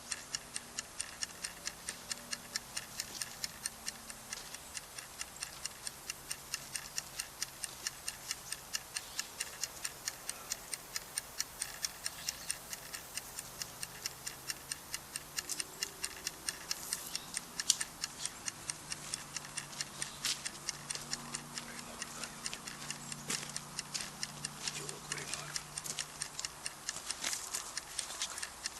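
Steady, even ticking of about four clicks a second, like a clock or small mechanism.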